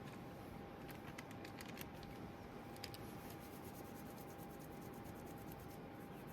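A cluster of faint small clicks and taps about a second in, over a steady low hiss with a faint constant tone.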